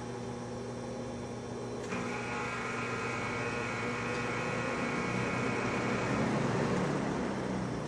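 Vintage McGraw Edison Zero box fan running with a steady electric motor buzz, a buzz it has always had. About two seconds in, a higher whine joins and the sound swells, then eases off near the end.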